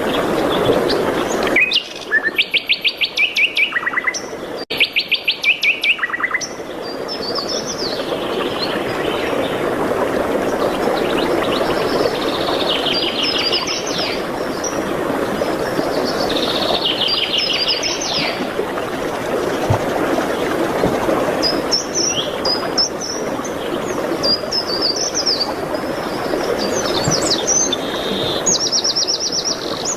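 Songbirds singing: two loud, fast trills of rapidly repeated notes near the start, then quieter trills and short chirps through the rest, over a steady background rush.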